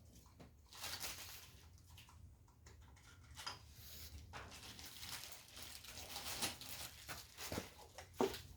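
Faint rustling and scraping with light clicks and knocks, as hands handle tools and parts during an engine teardown. The sharpest click comes near the end.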